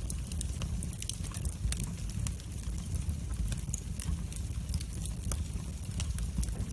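Wood fire burning in a fireplace, with a steady low rumble of the flames and frequent sharp, irregular crackles and pops.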